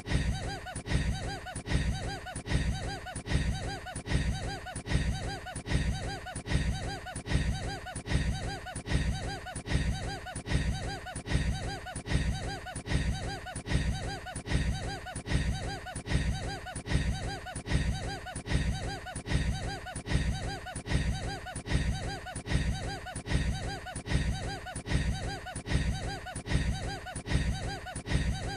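A man's short, odd-sounding laugh, looped over and over at an even, quick rhythm, about one and a half times a second.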